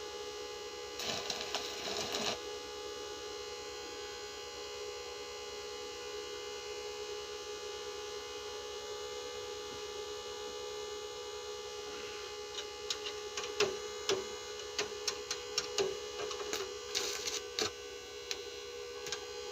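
A steady electrical hum with several pitches runs throughout. It is broken by two short bursts of hiss, about a second in and near the end. Through the second half comes an irregular run of sharp clicks and taps.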